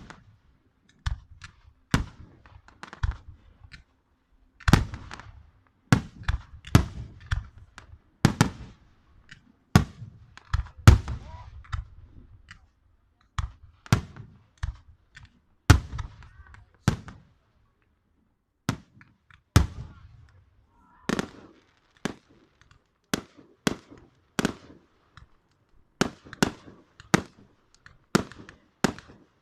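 Fireworks going off: a long irregular series of sharp bangs and pops, roughly one or two a second, some with a short crackling tail.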